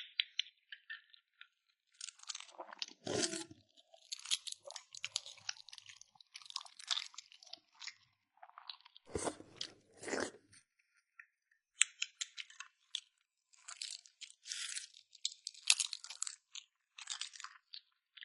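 Close-miked eating sounds of a person crunching and chewing balut (duck embryo egg): irregular crisp crunches throughout, with two heavier, fuller crunches about three seconds and nine seconds in.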